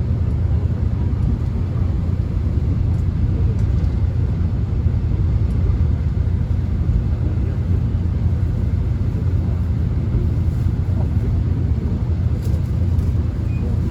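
Steady low rumble of a subway train running, heard from inside the passenger car.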